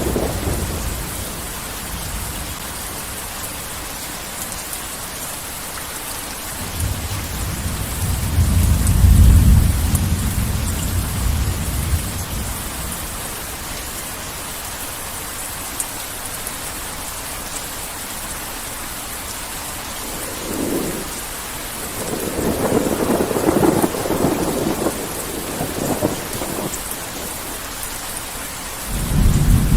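Heavy rain falling steadily, with rolling thunder: a deep rumble building to a peak about nine seconds in, more rolls of thunder from about twenty to twenty-seven seconds, and another deep rumble starting just before the end.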